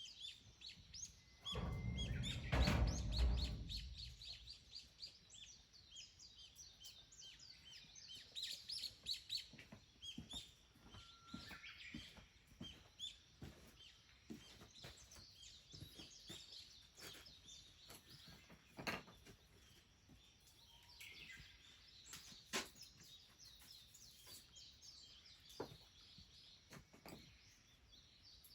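Small birds chirping and twittering in quick, high calls throughout. About a second and a half in, a loud low rumble lasts about two seconds, and a few sharp clicks come and go.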